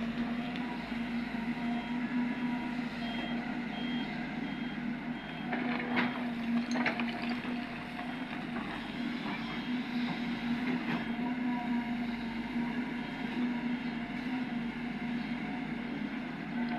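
Heavy diesel earthmoving machinery running with a steady drone, while a faint reversing beeper repeats at an even pace during the first few seconds. A few sharp knocks come around the middle.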